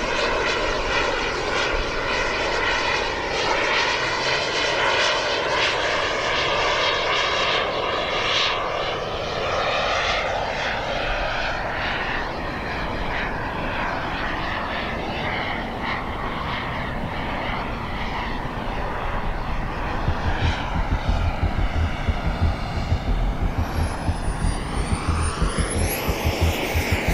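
Radio-controlled model jet's turbine engine flying overhead: a continuous jet whine that swells and fades with pitch sweeps as the plane makes passes, with a thin high whistle gliding up and then down near the end.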